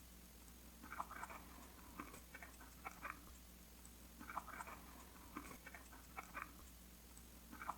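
Faint paper handling: short clusters of soft crinkles and light taps, recurring about once a second, as paper pieces are worked by hand on a journal page.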